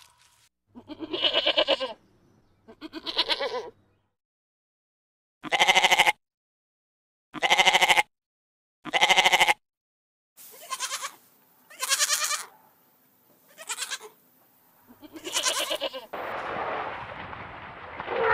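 A lamb bleating: about nine separate calls, each a second or less long, with silent gaps between them. Near the end the bleating gives way to a steady, noisy sound.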